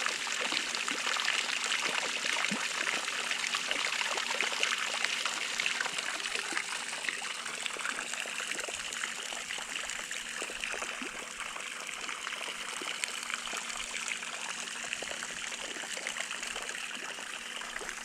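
Water running steadily from an Intex 28089 pool waterfall sprayer and splashing into water below, a continuous trickling splash that eases off a little toward the end.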